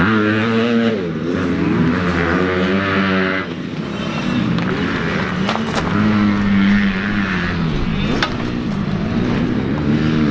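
Several small single-cylinder pit bike engines revving up and down together, pitch climbing and dropping as they run, with a couple of short knocks partway through.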